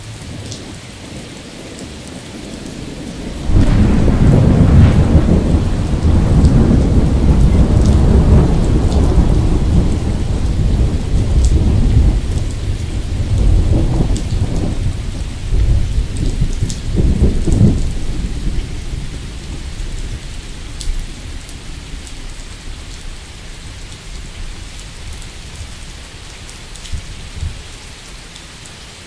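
Steady rain with thunder breaking in suddenly about three seconds in. The thunder rumbles in rolling swells for some fifteen seconds, then dies away, leaving the rain.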